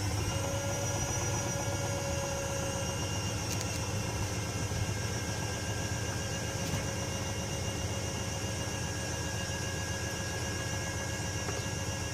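Privileg Sensation 9245 washing machine's drum motor running at a steady speed, with a steady whine over a low hum.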